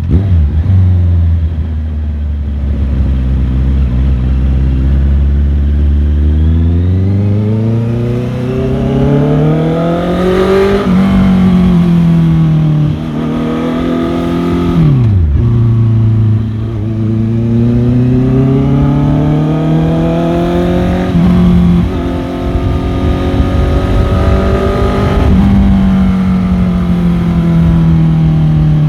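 Motorcycle engine under way, its pitch climbing under acceleration and dropping back at several gear changes. About halfway through the pitch falls sharply, and near the end it sinks slowly as the bike eases off.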